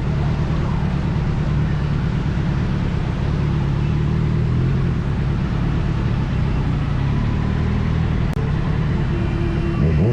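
Kawasaki Z900's inline-four engine running steadily while riding, with a brief drop in sound about eight seconds in and the revs rising at the very end.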